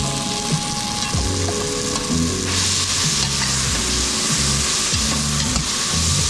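Food sizzling in a hot frying pan while being stirred, a steady hiss that gets louder about halfway through.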